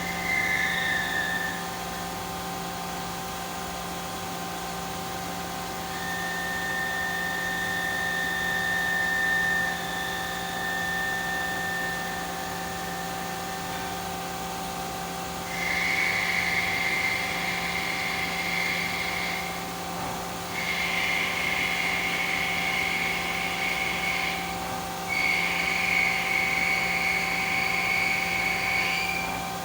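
Five-axis CNC machine running: a steady mechanical hum with a high whine that sounds in stretches of several seconds, dropping out briefly between them.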